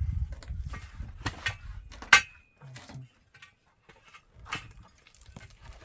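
Scattered knocks and clinks of hand tools and building materials being handled. The loudest is a sharp metallic clink about two seconds in that rings briefly. A low rumble at the start dies away within the first second.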